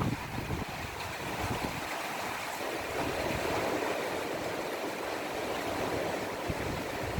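Heavy storm rain pouring steadily, a dense hiss that thickens about three seconds in. Wind buffets the microphone at the start and near the end.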